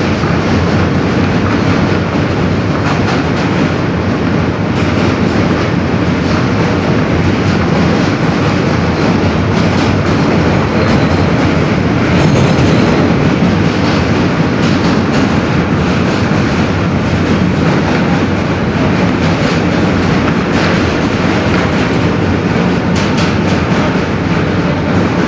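Inside an R160B subway car running at speed: a steady loud rumble of wheels on rails, with faint clicks over rail joints.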